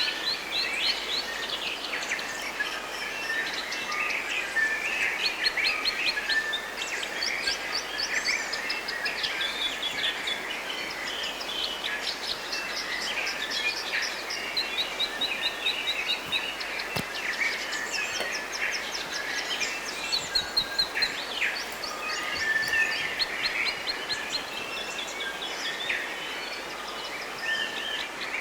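A dense chorus of many birds chirping, trilling and calling in rapid repeated notes, overlapping throughout, over a steady background hiss.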